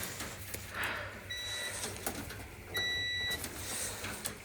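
Two short electronic beeps at one steady high pitch: a fainter one about a second in, then a longer, louder one about a second and a half later.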